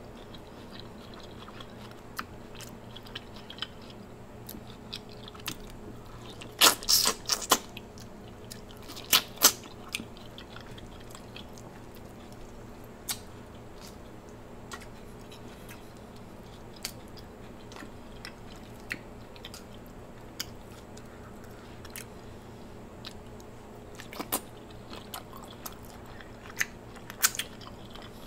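Close-miked chewing and biting of boiled shrimp dipped in sauce: soft mouth sounds with scattered small clicks and a few louder bursts, about seven and nine seconds in and again near the end. A faint steady hum lies underneath.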